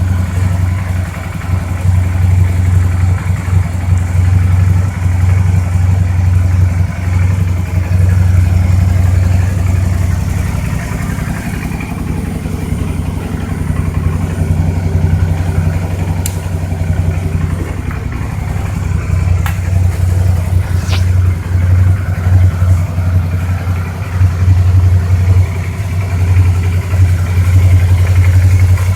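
Suzuki V-Strom DL650's 645 cc V-twin engine running steadily, with an even, unchanging low note and no revving.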